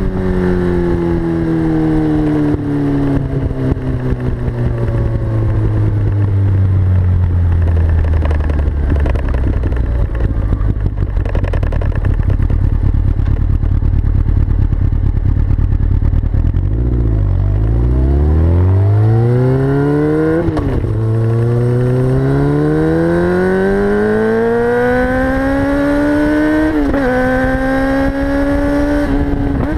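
Yamaha R6's inline-four engine through a full Akrapovic Evolution exhaust, winding down slowly on a closed throttle with popping and crackling in the exhaust. About 17 seconds in it pulls hard again, its pitch climbing steadily with two short dips, typical of upshifts.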